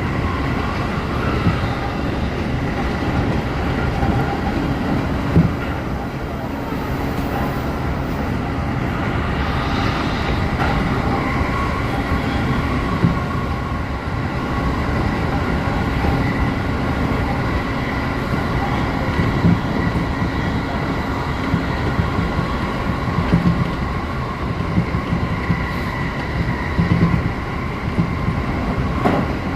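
Electric commuter train running, heard from inside the car: a steady rumble of wheels on rail with a faint steady whine and scattered short knocks.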